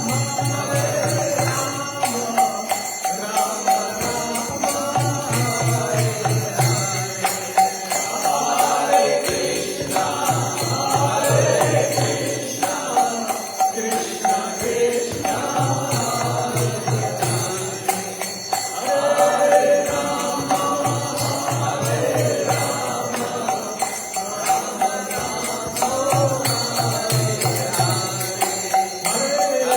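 Devotional kirtan: voices chanting a mantra over jingling hand cymbals (kartals), with a low beat coming in short runs every few seconds.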